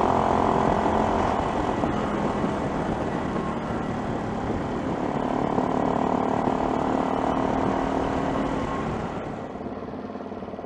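Adventure motorcycle running along the road, its engine note steady under road noise, then dropping away near the end as the bike eases off.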